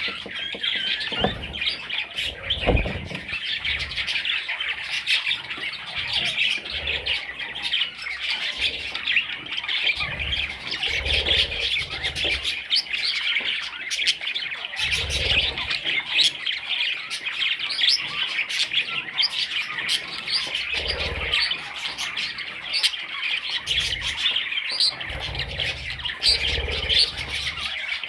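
Budgerigar chicks chirping and squawking continuously, many high short calls overlapping. A few low bumps sound underneath now and then.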